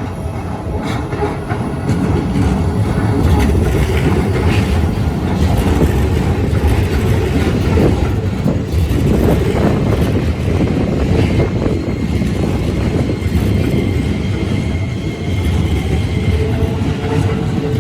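Keikyu Line electric train running past, loud, its steel wheels clicking over the rail joints.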